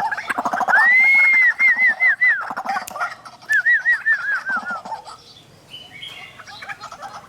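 White-breasted waterhens calling. Rapid chattering calls give way to a series of arched whistled notes: one long note, then a quick run of short ones. A second run of about six short notes follows, and the calls fade after about five seconds.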